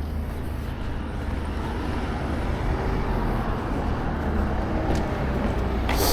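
Road traffic: a motor vehicle running with a steady low rumble, with a short sharp click near the end.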